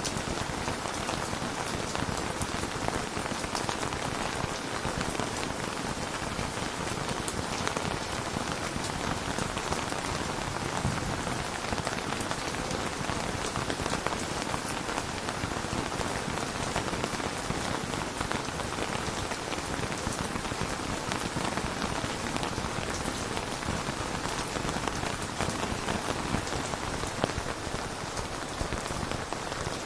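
Steady, heavy rain with many fine drop ticks, an even rushing hiss without thunder.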